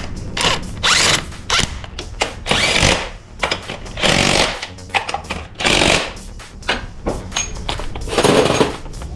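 A handheld power tool runs in about six short bursts, with sharp metallic clicks between them, as when bolts are driven out during engine disassembly.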